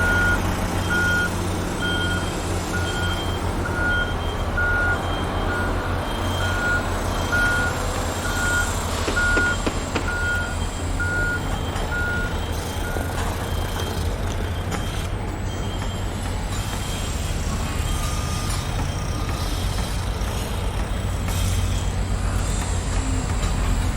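A truck's reversing alarm beeping steadily, a little more than once a second, over the low rumble of a running engine. The beeping stops about halfway through while the engine keeps running.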